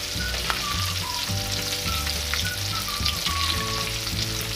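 Shallots, garlic, red chillies and tomato frying in hot oil in a wok, with a steady crackling sizzle and a spatula stirring through them.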